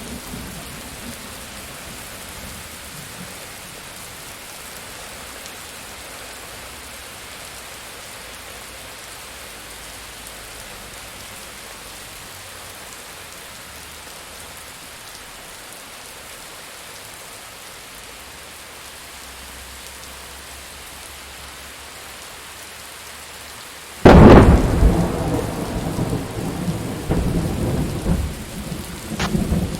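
Steady rain falling in a thunderstorm. About 24 seconds in, a sudden loud thunderclap breaks out and rolls on as rumbling, with another sharp crack near the end.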